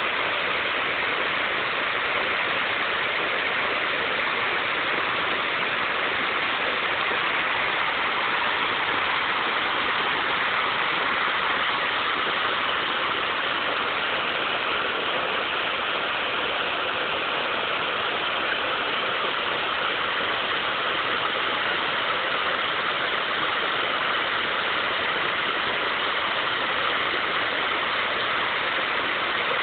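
River water flowing, a steady rushing noise that holds an even level throughout.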